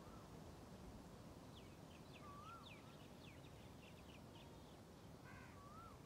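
Faint wild birds calling over a steady low hiss of background noise: repeated wavering whistles, a quick run of high chirps in the first half, and a short harsher call near the end.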